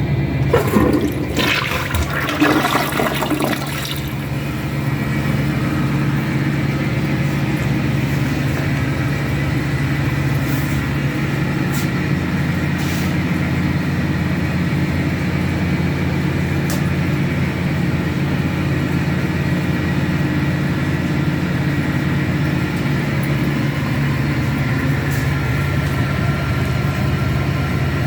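Toilet flushing: a loud rush of water starts about half a second in and dies away by about four seconds in. Under it, and on after it, a steady low mechanical hum.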